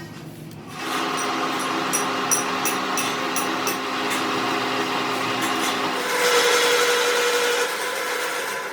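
A power tool running steadily from about a second in, with light ticking for a few seconds; its tone shifts higher about six seconds in.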